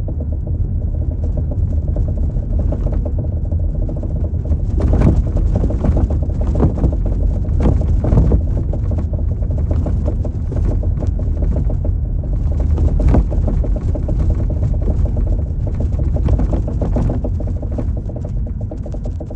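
Road rumble inside a moving Volkswagen Golf 7, with irregular knocks and rattles from the rear of the car that come in clusters: the unexplained rear knock.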